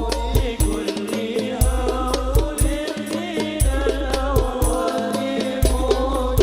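Hadroh music: voices singing sholawat over Javanese frame drums (rebana) and a deep bass drum, in a steady driving rhythm.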